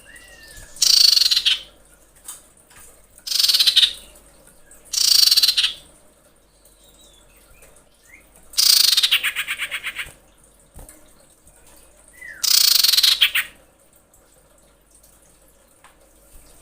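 Female common iora giving five harsh, rasping screech calls a few seconds apart, the fourth ending in a rapid rattle. This is the breeding female's call to a male, used as a lure.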